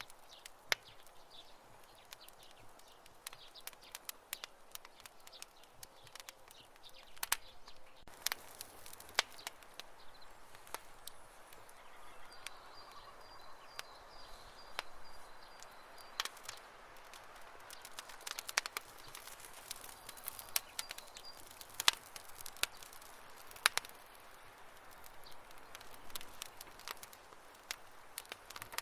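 Wood campfire crackling: irregular sharp pops and snaps over a low steady hiss. A faint high chirping joins it for a few seconds near the middle and again briefly later.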